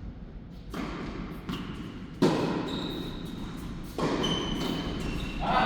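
Tennis ball hits and bounces on an indoor court, a series of sharp knocks with a hall echo after each; the loudest comes a little over two seconds in, another near four seconds.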